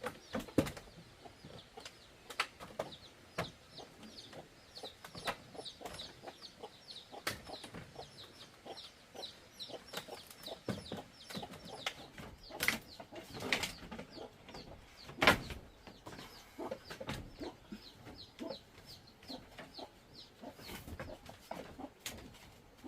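Chickens calling: a steady run of short, high peeps, several a second, with scattered knocks and taps among them.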